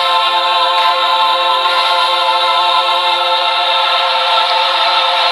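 Gospel choir holding a long sustained chord at the close of a song.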